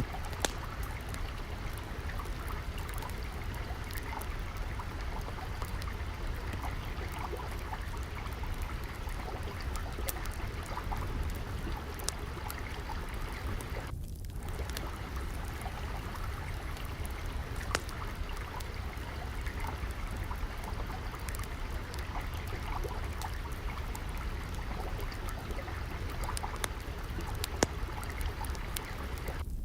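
Steady flowing water with a low rumble, scattered through with the small sharp pops of a crackling wood fire. About halfway through the sound briefly thins out for a moment.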